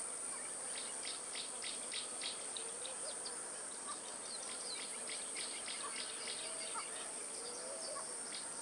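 Insects chirping: a steady high-pitched trill with bouts of quick short chirps, about four a second, over it, and a few faint bird-like calls.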